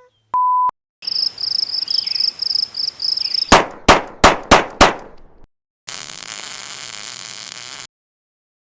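A string of stock sound effects in quick succession. First a short steady beep, then a high chirping trill, about four chirps a second, like an insect. Then five loud sharp bangs about a third of a second apart, and finally a steady hiss with a low hum that cuts off suddenly.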